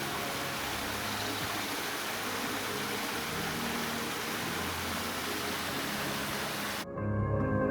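Steady rushing outdoor noise with a faint low hum, which cuts off abruptly near the end as soft ambient music begins.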